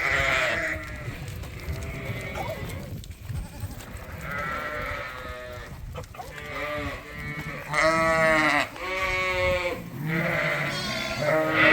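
Sheep and young lambs bleating again and again, calls overlapping, the loudest about eight seconds in.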